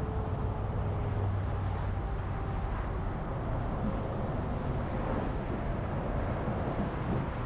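A car driving at freeway speed: steady road and engine rumble without a break.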